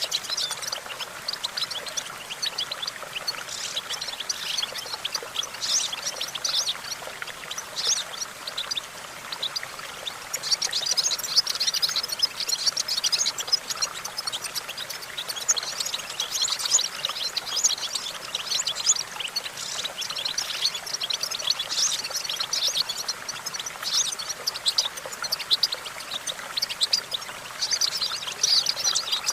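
European goldfinch singing: a long, rapid, high twittering song of tinkling chirps and trills in runs, with short breaks between them.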